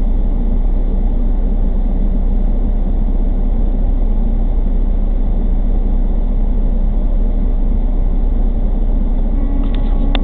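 Steady low drone of a vehicle's engine and road noise heard inside the cab, with a brief tone near the end.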